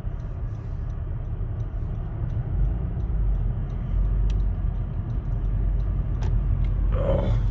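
Steady low rumble inside a 2017 Honda Civic's cabin while driving: engine and road noise from Nokian WRG4 winter tyres rolling over compacted snow. A brief, louder sound comes about seven seconds in.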